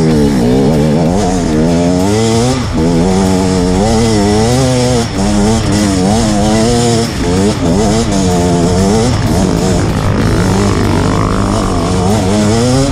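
Two-stroke enduro motorcycle engine, a KTM 250 EXC, revving up and down over and over as the rider works the throttle on a muddy trail.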